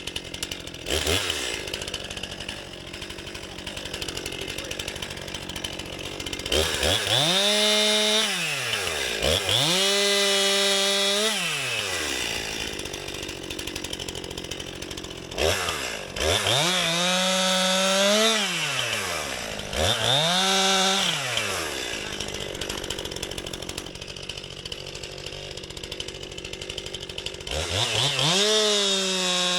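Two-stroke chainsaw running, revved up to full throttle five times. Each time it holds high, steady revs for a second or two before dropping back to idle.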